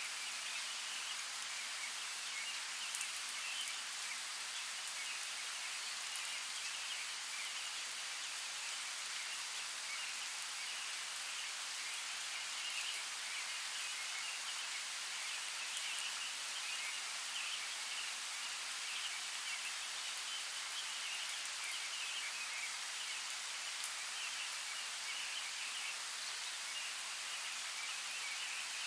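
Steady rain falling in a forest: an even hiss with scattered sharper drops.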